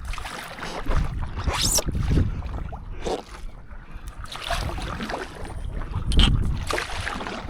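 Paddle strokes splashing in seawater at irregular intervals, with water slapping against a stand-up paddleboard and wind rumbling on the microphone; the loudest splash comes about six seconds in.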